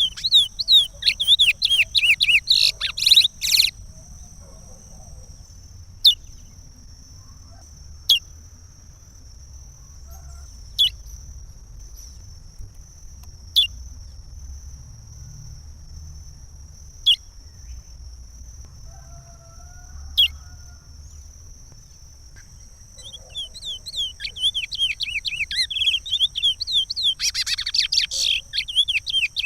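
Curió (chestnut-bellied seed finch) singing its Pará regional song: a fast run of warbled notes, then a pause of single sharp chips every two to three seconds, and the warbled song starting again in the last few seconds. A steady high-pitched tone runs underneath.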